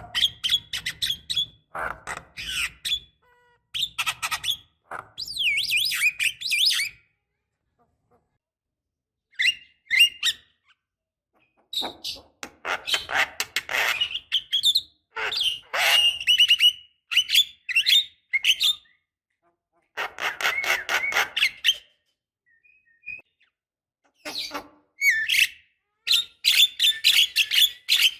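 Javan myna calling: phrases of harsh, rapid clicking chatter mixed with short whistled and gliding notes, broken by a couple of brief pauses.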